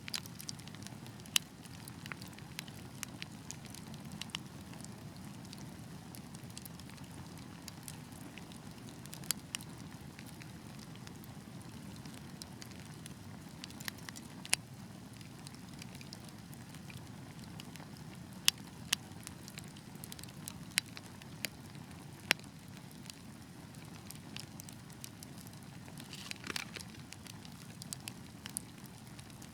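Wood fire crackling: irregular sharp pops and snaps scattered over a low, steady rumble of burning logs, with a short hiss about three quarters of the way through.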